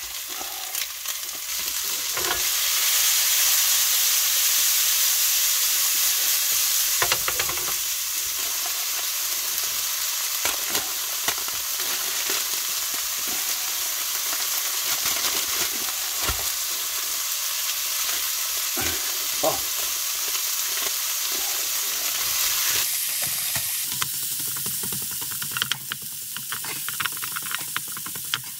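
Steak strips and vegetables sizzling in a frying pan on a portable camping stove. The pan is stirred with a wooden spatula that taps and scrapes it now and then. The sizzle grows louder a couple of seconds in as more food is tipped into the pan.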